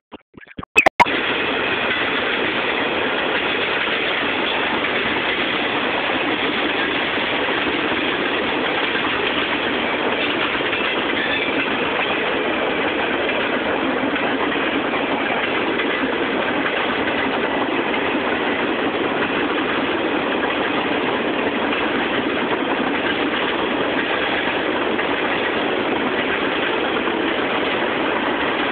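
Freight train cars rolling past on the rails, a steady loud rush of wheels on track. A few sharp knocks in the first second.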